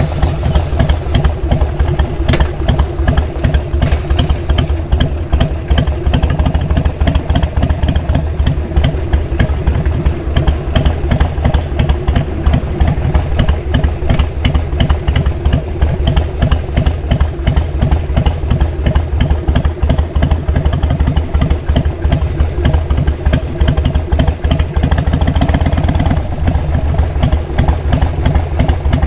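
2002 Harley-Davidson XL883R Sportster's air-cooled V-twin with Cobra SpeedSter Short aftermarket mufflers, idling steadily just after being started. The note swells briefly about 25 seconds in.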